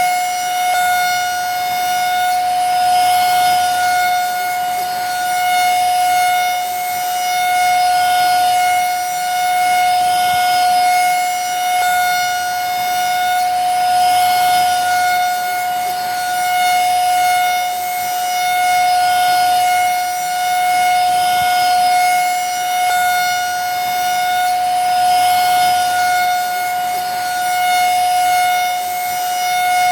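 Vacuum cleaner running steadily: a high, unchanging motor whine over a hiss of rushing air, swelling and easing slightly every few seconds.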